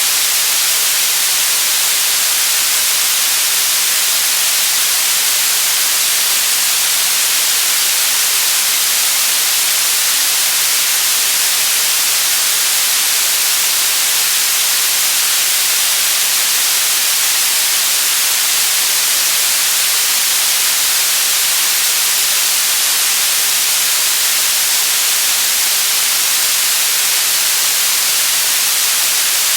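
Steady white noise: an even, unchanging hiss, bright and strong in the highs and thin in the bass.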